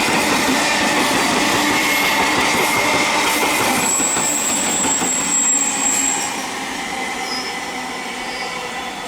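EMU electric local train running on the track, its wheels giving a high steady squeal on the rails about four seconds in. The rumble drops to a quieter level after about six seconds.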